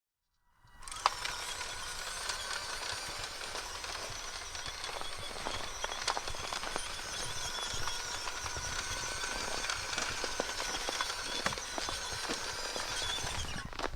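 Electric drive motor and gearbox of a radio-controlled Bruder MAN 6x6 truck running at a steady speed: a thin, steady whine over a rough crackling noise. It starts about half a second in, with a sharp click just after, and drops away near the end.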